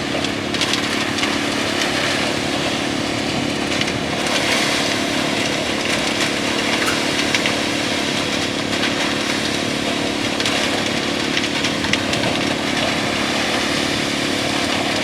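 Concrete mixer truck's diesel engine running steadily while the truck places concrete, with a few low steady tones under a broad mechanical noise.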